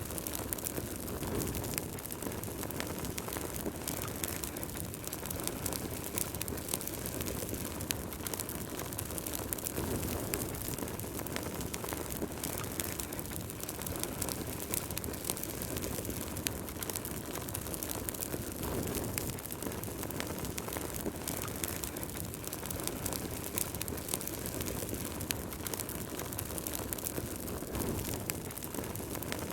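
Wood fire burning in a fireplace, with a steady low rush of flame and many small irregular crackles and pops.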